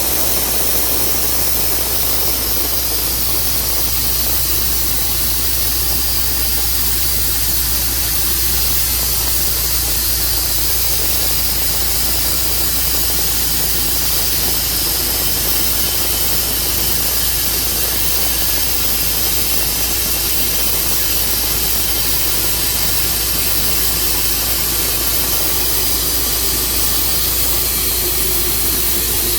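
Engine-driven saw running steadily with a loud, even hiss, unchanging throughout.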